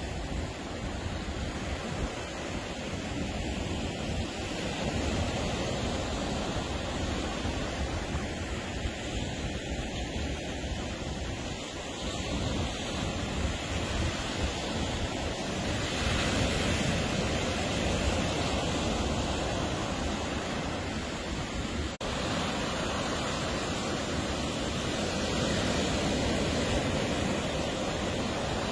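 Ocean surf washing onto a beach: a continuous rush of breaking waves that swells louder every several seconds, with a momentary dropout about three quarters of the way through.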